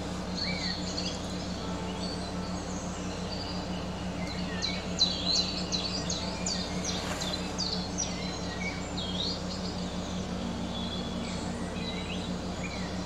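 Small birds chirping in the background: many quick, high chirps that rise and fall, busiest in the middle and near the end, over a steady low hum.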